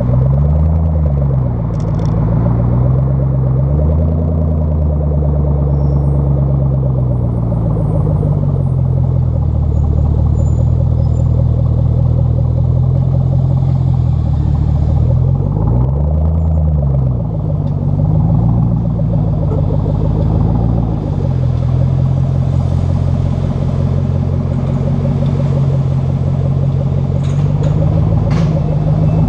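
Ford Mustang 4.6 V8 exhaust, running with a steady low note, with short throttle blips that rise and fall in pitch near the start and again about halfway through.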